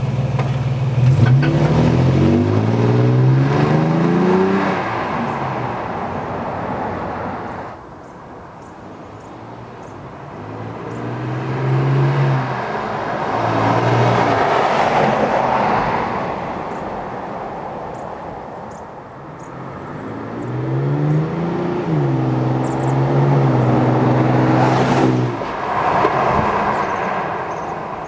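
2008 Toyota Tacoma with a Borla stainless exhaust and aFe cold air intake, its engine and exhaust accelerating. The pitch climbs and falls back several times over the stretch.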